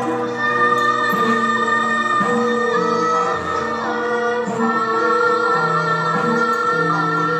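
Javanese gamelan dance accompaniment with a woman singing long, held notes over sustained pitched tones.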